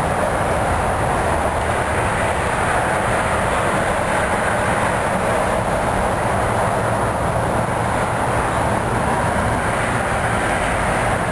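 Train passing: the steady rumble and roar of rail cars rolling along the track.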